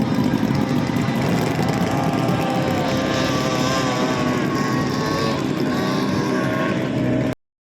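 18 hp outboard motor of a racing boat running at speed, its pitch wavering slightly. The sound cuts off suddenly near the end.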